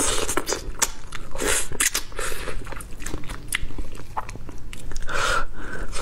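Close-miked eating of braised pork trotter: biting and chewing of the skin and meat, with many quick clicks and short mouth sounds.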